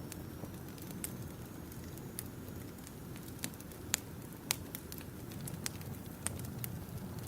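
Wood campfire burning: a steady low rumble of flames with irregular sharp crackles and pops from the wood, the loudest pair a little past the middle.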